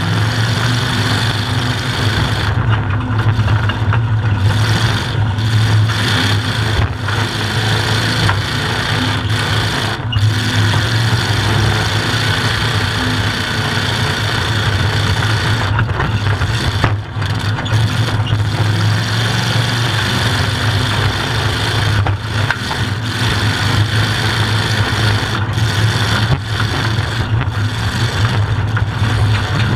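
Demolition derby vehicle's engine running loudly through open upright exhaust stacks, heard from inside the cab, steady with a few brief dips.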